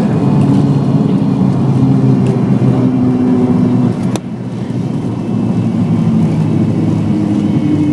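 An airliner landing, heard from inside the cabin: loud, steady engine and airframe noise with a low hum of several tones that shift a little. The noise drops briefly about four seconds in, with a click.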